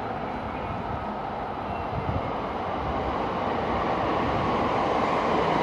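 A JR Musashino Line E231-series electric train pulling into the station, its running noise growing steadily louder as it approaches.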